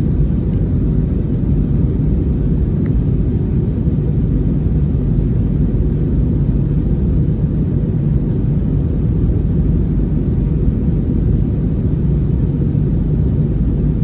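Airbus A321neo cabin noise during takeoff: a steady, low rumble of the engines and rushing air, heard from inside the passenger cabin.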